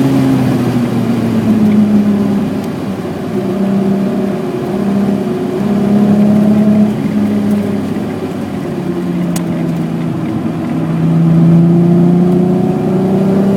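1986 BMW E28's 3.6-litre engine pulling hard on track, the revs climbing, dropping sharply once about seven seconds in at a gear change, then climbing steadily again.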